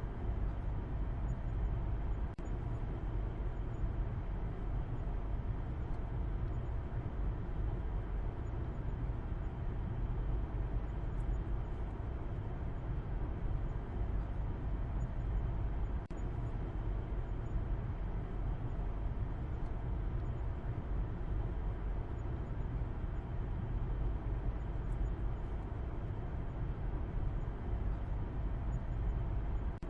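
A car driving at a steady speed: a constant low rumble of road and engine noise, with no distinct events.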